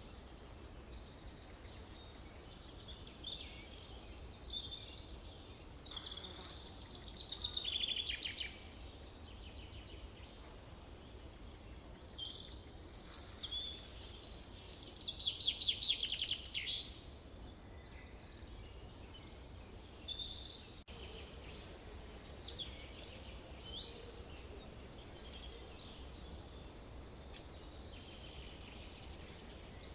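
Forest birds singing and calling, with short chirps throughout and two louder rapid trilled songs, about seven seconds in and again around fifteen seconds in, over a faint steady low background hum.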